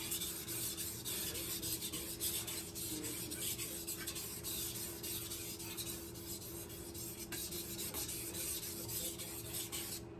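Steel kitchen knife blade stroked back and forth over a wet whetstone with slurry on it: a continuous gritty rubbing of steel on stone that stops near the end.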